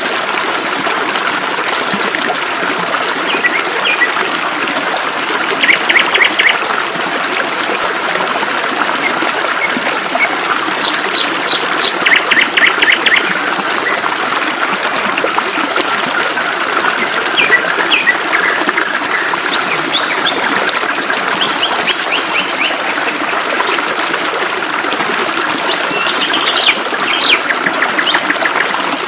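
Birds chirping and trilling over the steady hiss of flowing water, with short, rapid trills recurring every few seconds.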